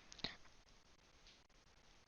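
Near silence, with one short click about a quarter of a second in.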